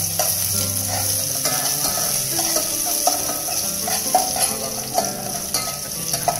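Onions and garlic sizzling in oil in a metal pot, with a metal spoon repeatedly scraping and tapping against the pot as they are stirred.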